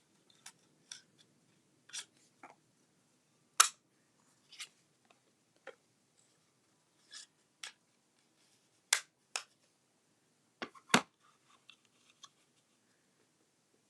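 About a dozen sharp, irregular snips and clicks of papercrafting tools on paper, with the loudest a little under four seconds in, around nine seconds in and around eleven seconds in.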